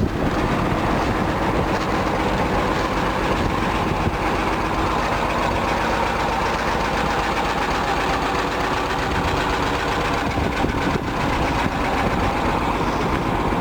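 T-16's two-cylinder air-cooled D-21 diesel running steadily with a fast, even firing rhythm. The engine is worn: the owner says the piston group needs replacing.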